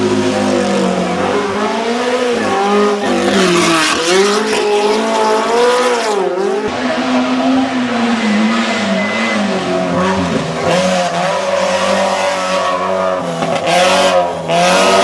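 Hillclimb race car engine revving hard, its pitch rising and dropping again and again as it accelerates and lifts through the corners, with an abrupt change about halfway through.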